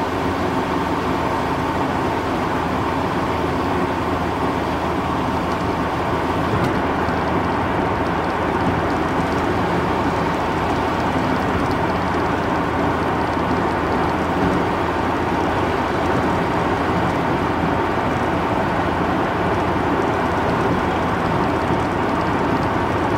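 Steady road and engine noise of a vehicle driving at an even speed, with a faint steady hum and no change throughout.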